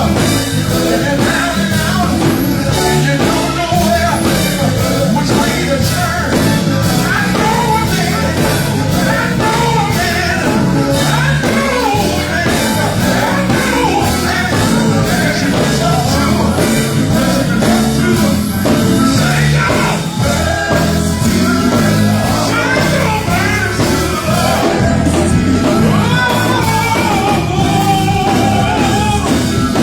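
Live gospel group singing with a full band behind them, bass, drums and guitar, the vocal line wavering over a steady, loud accompaniment.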